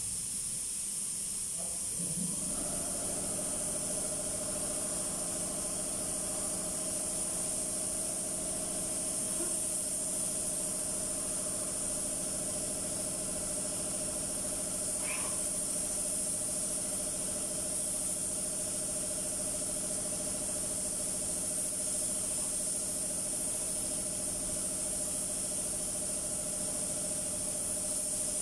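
Steady hiss of a compressed-air paint spray gun. About two seconds in, a steady machine hum with several held tones joins it.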